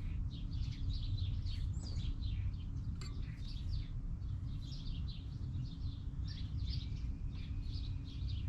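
Several birds chirping and twittering throughout, over a steady low rumble, with one faint click about three seconds in.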